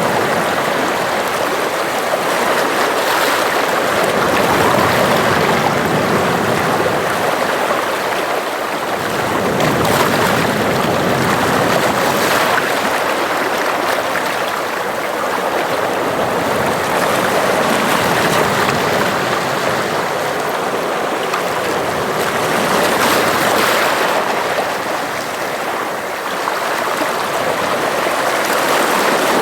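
Sea waves washing against the shore: a steady rush of water that swells and eases gently every few seconds.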